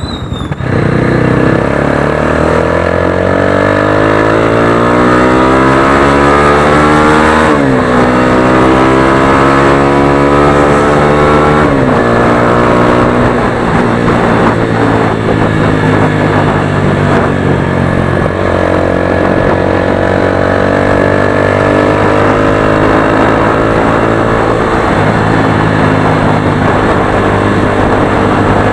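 Motorstar Xplorer Z200S's single-cylinder engine pulling hard from about a second in. Its pitch climbs and then falls sharply on upshifts about seven and a half and twelve seconds in. After that it runs at steadier revs, with another shift about eighteen seconds in.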